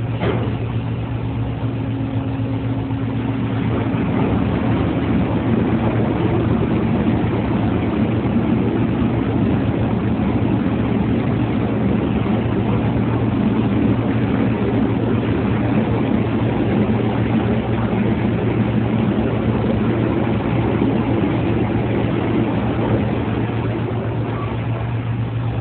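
Heavy machinery running with a steady low hum. A coarser rushing noise builds about four seconds in and holds, as the hopper of dewatered sewage sludge cake unloads into the truck's trailer.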